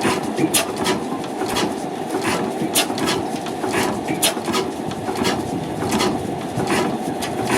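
Allen stationary oil engine running slowly, with sharp clacks coming about one to two times a second over a steady mechanical noise.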